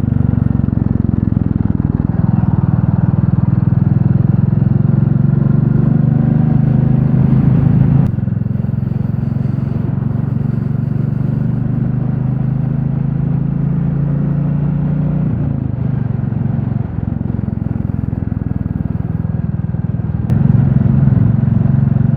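Royal Enfield Classic 350's single-cylinder engine running steadily on the road. It eases off and gets quieter about eight seconds in, then picks up again near the end.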